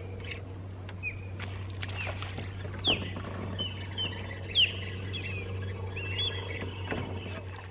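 Birds chirping, many short rising and falling calls, two of them louder about three and four and a half seconds in, over a steady low hum.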